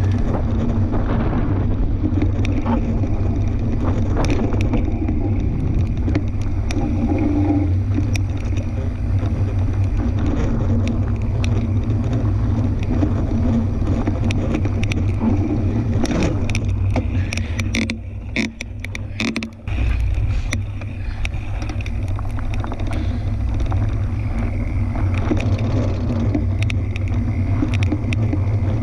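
Fat-tire tandem bike riding along a dirt trail: a steady low rumble with scattered clicks and rattles. The clicks are thickest about two-thirds of the way through, where the rumble briefly drops away.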